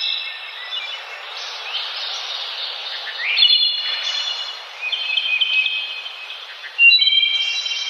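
Birds singing and calling over a steady hiss of outdoor background noise, with several overlapping high calls that start and stop throughout; the loudest calls set in abruptly about three and a half seconds in and again near the end.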